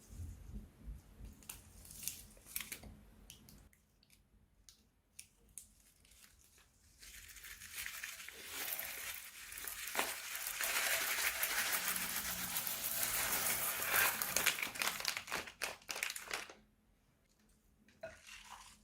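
Plastic piping bag crinkling as it is handled and squeezed: scattered crackles at first, then about nine seconds of continuous dense crinkling that stops abruptly, with a few faint crackles near the end.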